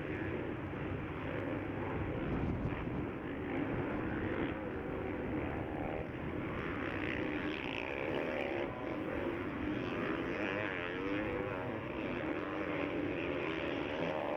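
Motocross bike engines revving hard as a pack races around the track. The pitch climbs and drops through gear changes and on and off the throttle.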